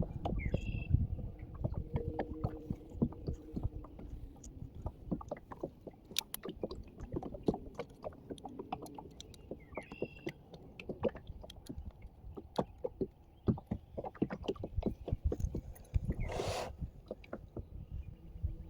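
Irregular knocks, clicks and handling noises on a kayak, over a low rumble, with a brief rush of noise near the end.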